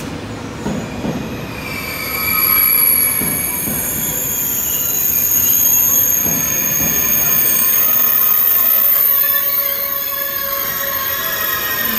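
Double-deck TGV train rolling slowly past along the platform, with a high squeal of several steady pitches from its running gear that sets in about two seconds in and holds, over a low rumble.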